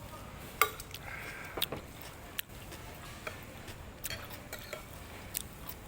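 A few sharp clicks and light knocks of kitchenware or tableware at irregular intervals, the loudest less than a second in, over a low steady background.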